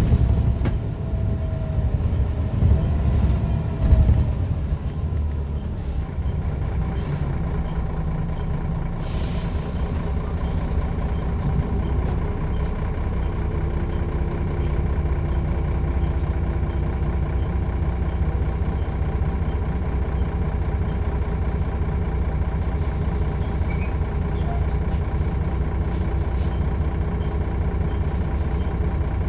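Scania L94UB bus's diesel engine running, louder for the first few seconds and then settling to a steady drone. Short hisses of released air come about nine seconds in and again near twenty-three seconds.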